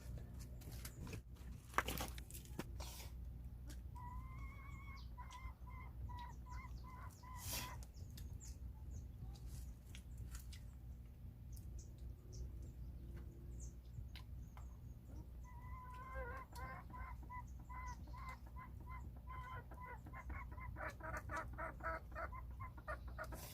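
A chicken clucking in runs of short, evenly repeated notes: one run about four seconds in, and a longer one in the second half that quickens near the end. A few sharp clicks and a steady low hum lie under it.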